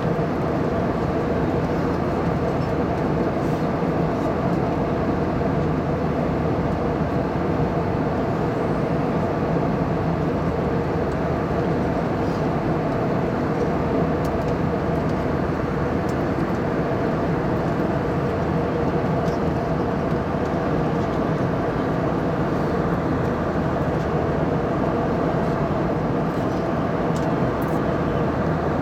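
Airliner cabin noise in flight: the steady rush of jet engines and airflow heard from inside the cabin, with a constant low hum and no change in level.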